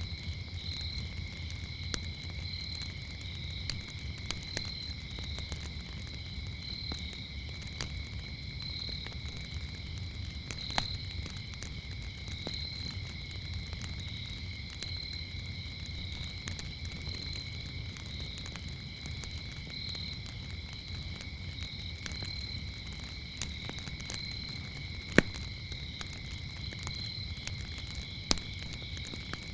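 Crickets chirring in two steady high trills, the higher one swelling about once a second, over a crackling wood fire's low rumble. The fire gives scattered sharp pops, the loudest about 25 seconds in.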